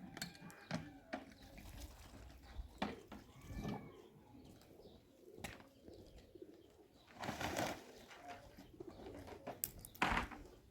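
Birds calling in short arched calls, mixed with scattered knocks and two louder brief rustling noises about seven and ten seconds in.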